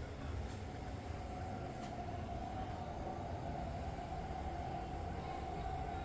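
Electric drive motor of a Tamiya Scania R620 radio-controlled truck model running, with a steady mid-pitched whine over a low rumble.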